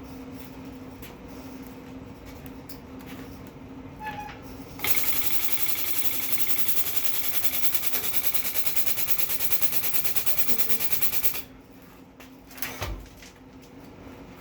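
Pneumatic impact wrench hammering in one long burst of about six and a half seconds, starting about five seconds in, over a steady low hum.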